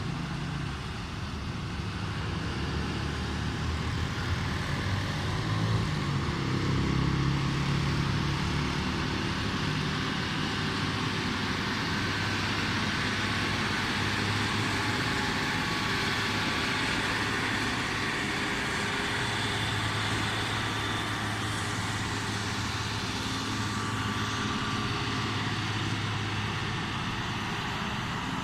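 Hino truck's diesel engine running as the truck drives, with road noise. The engine note shifts up and down a few seconds in, then holds steady.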